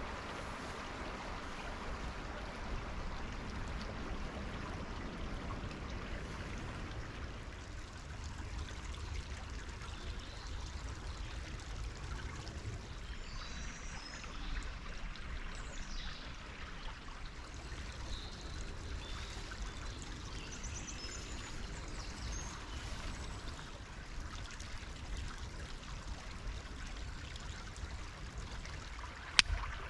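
Small woodland stream running steadily, a constant rush of water. A few faint high chirps come through around the middle.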